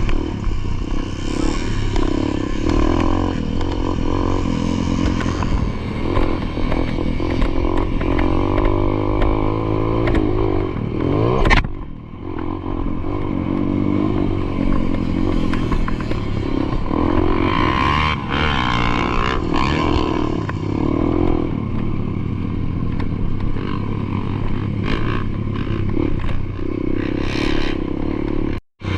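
Dirt bike engine running hard over a motocross track, its pitch rising and falling again and again as the throttle is opened and shut, with rattling from the bike. A sharp knock comes about eleven seconds in, followed by a brief dip in the engine sound.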